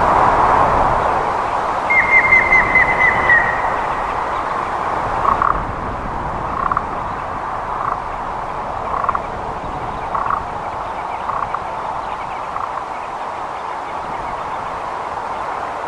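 Grey-headed woodpecker calling: a quick run of about eight whistled notes, falling slightly in pitch, followed by softer single notes about once a second, over a steady background hiss.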